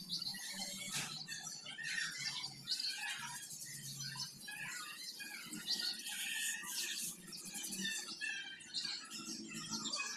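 Birds chirping and calling, with many short, irregular chirps.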